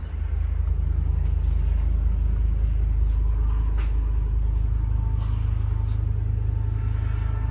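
Engine of a 2009 Ford E-450 truck running steadily with a low rumble, picking up slightly in level just after the start.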